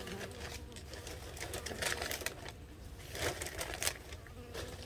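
Sheet of newspaper rustling and crinkling as it is spread over an open beehive, in irregular bursts, loudest about two and three and a half seconds in. Honey bees hum steadily underneath.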